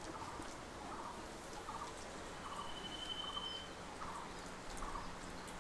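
Faint, short bird calls repeating about twice a second, with a brief high whistle in the middle.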